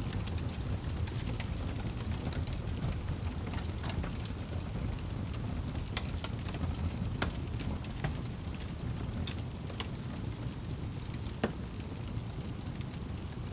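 Steady rain with a crackling fire: a continuous low rush of rain, with scattered sharp pops and snaps of burning wood, a few louder pops among them.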